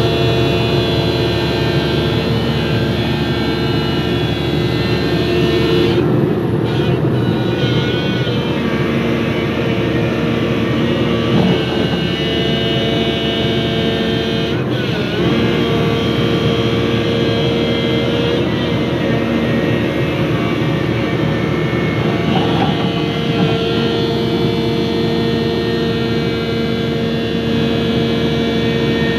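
Cat 323D3 excavator running, its hydraulic pump giving a steady whine of several held tones over the engine rumble. This is the strange pump sound that remained after the pump was opened and repaired with no fault found.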